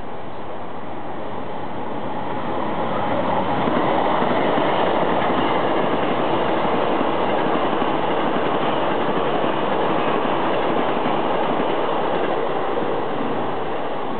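Ten-car Hankyu 7300 series electric train running past at speed without stopping: a steady rush of wheels on rail with its traction motors, swelling about three seconds in and easing a little near the end.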